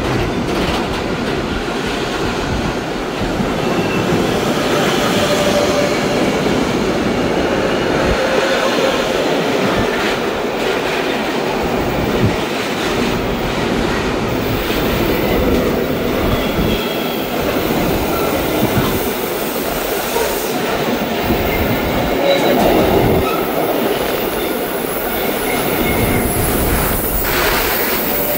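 Freight train wagons rolling past steadily, with short high wheel squeals now and then.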